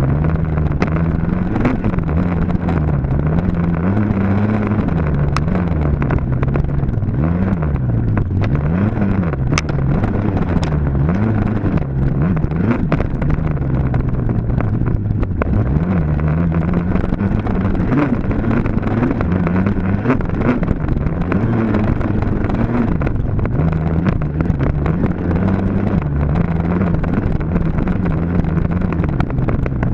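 Dirt bike engine running hard, its pitch climbing and dropping again and again as the throttle is opened and shut and the gears change.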